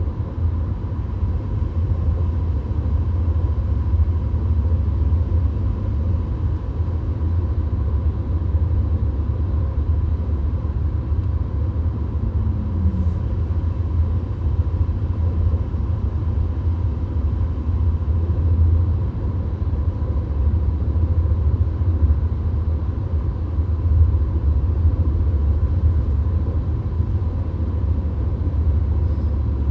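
Steady low rumble of road and engine noise inside the cabin of a VW Golf cruising at highway speed, with a faint steady whine above it.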